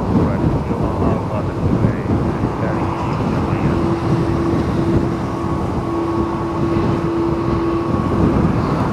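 Strong typhoon wind buffeting the microphone in a dense, loud rumble, with a steady droning tone through the middle of it.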